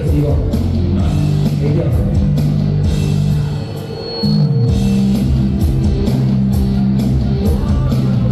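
Amplified band music with a steady drum beat and electric guitar, loud; the music drops briefly a little before halfway and comes back in.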